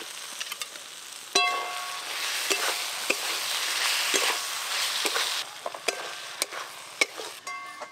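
Fried potato wedges being stirred into hot masala in a wok: a sizzling hiss, strongest in the middle, with spatula scraping strokes as the masala is fried down with the potatoes. Ringing metal clinks against the wok about a second and a half in and again near the end.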